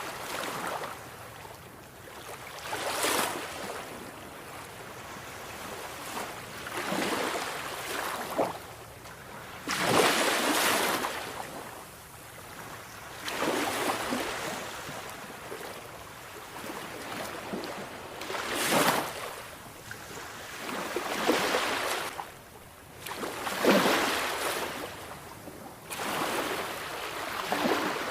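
Sea waves breaking and washing up the shore, a hiss that surges and falls back every few seconds, about eight swells in all.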